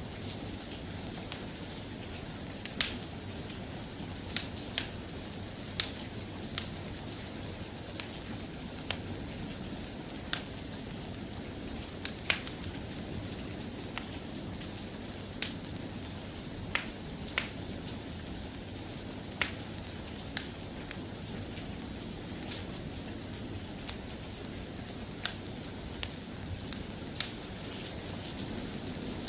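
Steady soft rain, with sharp pops scattered irregularly through it, about one every second or two.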